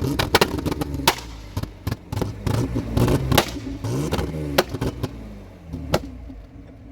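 Vehicle engine running and revving up and down, with repeated sharp clunks and knocks over it.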